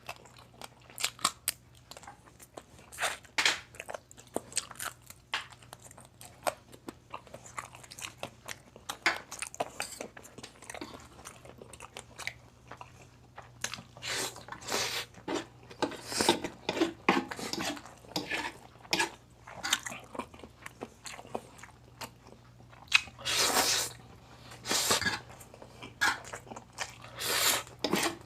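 A person biting and chewing crunchy food at close range, typical of crispy pata's fried pork skin: irregular crisp crunches with a few longer stretches of chewing.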